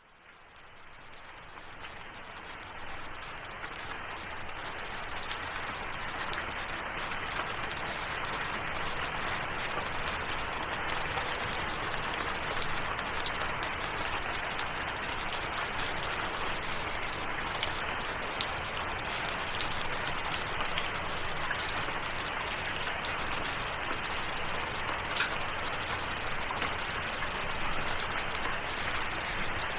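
Steady rain falling, with scattered single drops ticking through it. It fades in from silence over the first few seconds, then holds steady.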